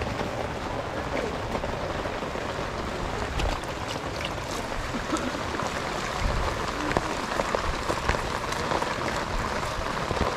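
Steady rain falling, with many scattered drops ticking on nearby surfaces.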